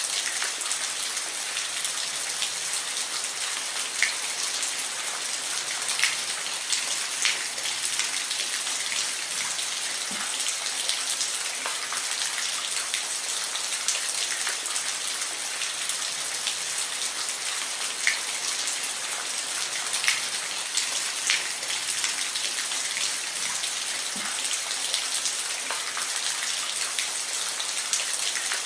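Steady rain falling, a dense even hiss with scattered louder drops tapping close by.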